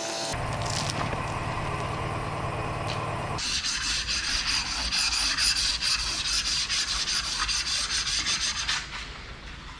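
Electric sander running on its own, then sanding wood from about three seconds in with a steady hissing grind, which stops near the end.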